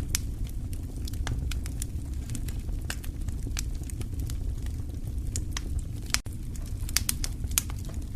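Wood fire crackling: irregular sharp pops and snaps over a steady low rumble of burning logs, with a momentary dropout about six seconds in.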